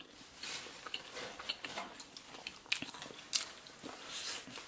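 Close-miked chewing and eating noises from people at a meal: soft, irregular mouth clicks and crackly chewing, with one sharper click a little after three seconds.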